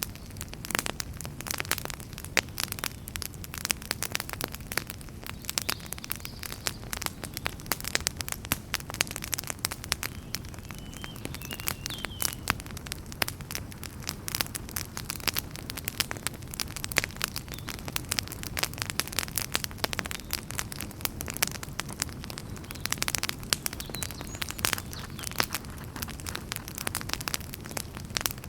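Wood fire burning in a fireplace: a constant dense crackling of many small pops and snaps over a low rumble of the flames.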